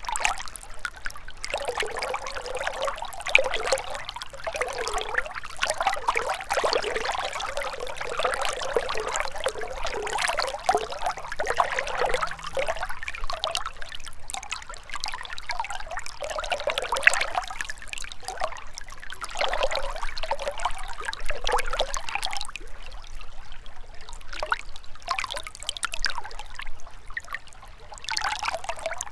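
Gentle river water trickling and burbling over stones, a continuous splashy flow that eases a little near the end.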